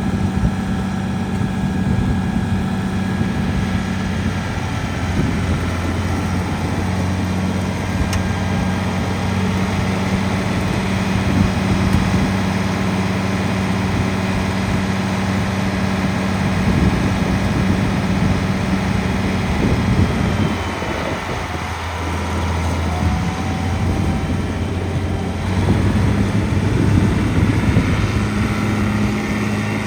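1972 International Farmall 966 tractor engine running steadily. Its note drops for a moment about two-thirds of the way through, then picks up again.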